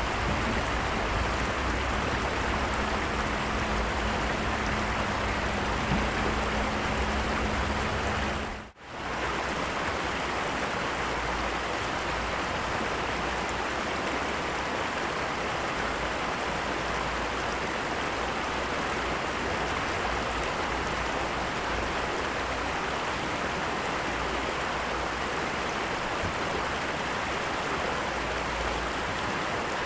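Heavy rain falling in a steady hiss, cutting out briefly about nine seconds in.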